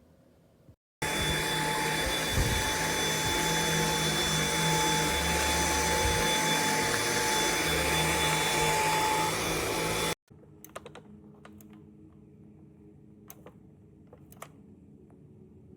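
Dyson V8 cordless stick vacuum running steadily with a high whine. It starts abruptly about a second in and cuts off after about nine seconds. A few light clicks follow.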